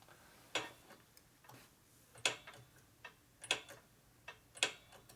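A series of sharp, light clicks and taps at uneven intervals, about seven or eight in five seconds, from hand work on a motorcycle's brake system during bleeding.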